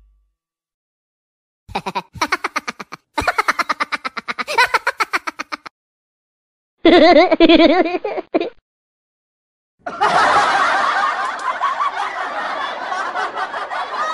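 Laughter sound effects played one after another, each a run of pulsed ha-ha-ha laughs with short silences between them. From about ten seconds in, a denser, unbroken stretch of laughter follows.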